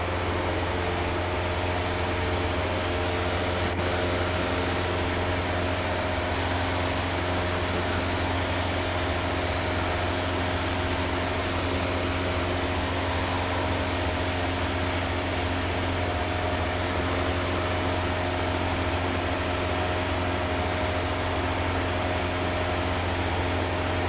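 Steady drone of a Cessna 152's four-cylinder Lycoming O-235 engine and propeller in flight, heard inside the cabin as a constant hum with a few steady tones.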